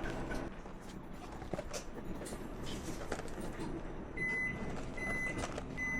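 Background street noise with a few clicks, then from about four seconds in an electronic warning beeper starts sounding a steady high beep a little more than once a second.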